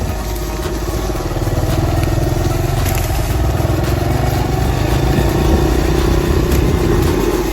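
Dirt bike engine running at low speed along a trail, its pitch rising and falling gently with the throttle.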